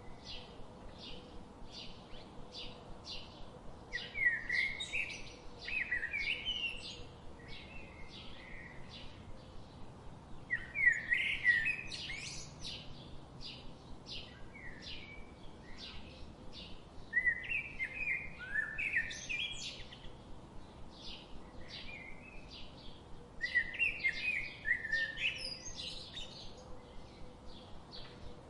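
Birds singing: one bird repeats a short chirp about two or three times a second throughout, and four times a louder, quick warbling song phrase breaks in over it.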